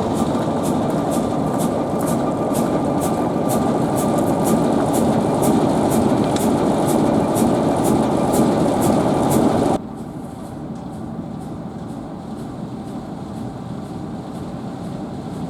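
Train noise with a sharp, regular clicking about two to three times a second. The noise cuts off suddenly about ten seconds in, leaving a much quieter background.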